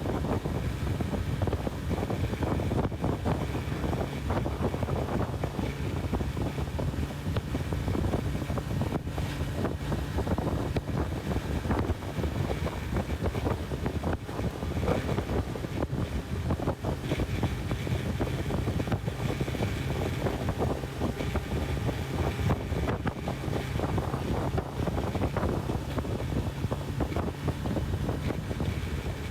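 Honda CB1000R's inline-four engine running at a steady cruise, with heavy wind rushing over the microphone.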